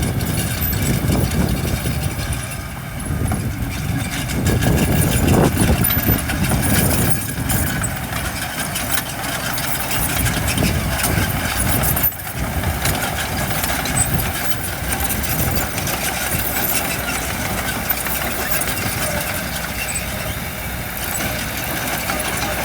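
Diesel engine of heavy construction machinery running, louder for a few seconds around five seconds in, with a sudden brief break about twelve seconds in.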